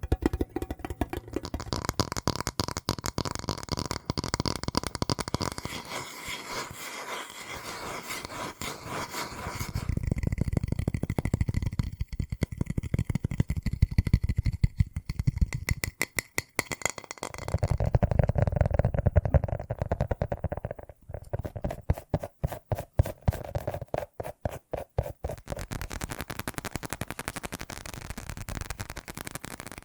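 ASMR tapping and scratching on objects held close to the microphone: fast, dense clicking that changes texture every few seconds, some stretches with soft low thuds underneath.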